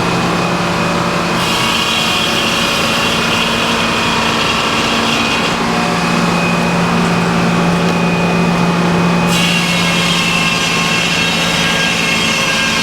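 Engine-driven sawmill running steadily while its blade saws lengthwise through a log to cut boards. A high cutting hiss comes in about a second and a half in, changes character about halfway and breaks off briefly near the ten-second mark before resuming over the steady engine drone.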